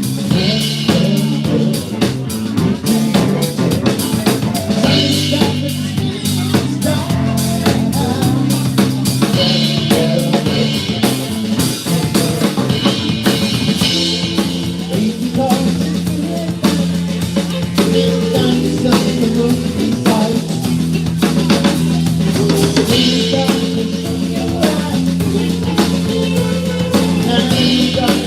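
Live band playing a steady groove: a full drum kit drives it, under sustained bass and other pitched instruments.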